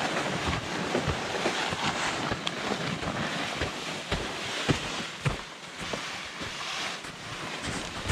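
Footsteps crunching and shuffling through wet snow, with irregular knocks over a steady hiss that ends sharply near the end.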